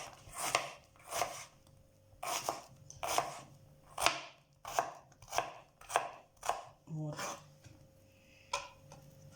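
Kitchen knife slicing an onion: about a dozen crisp cuts at roughly two a second, each ending in a knock on the board, then one last cut near the end.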